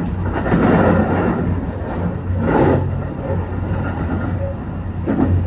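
Train running with a steady low hum, with brief louder rushes of noise about half a second and two and a half seconds in.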